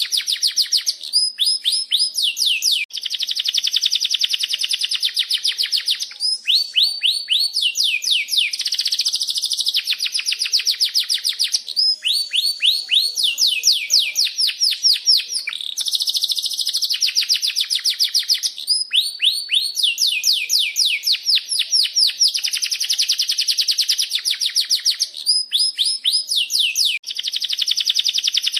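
Domestic canary singing a long, unbroken song of rapid rolling trills. Each phrase is a fast run of repeated sweeping chirps, and a new phrase starts every second or two.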